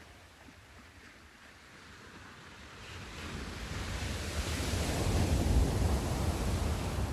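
Sea surf: a quiet wash swells from about a third of the way in into a breaking wave with a deep rumble and hiss, loudest a little past the middle, then starts to ebb.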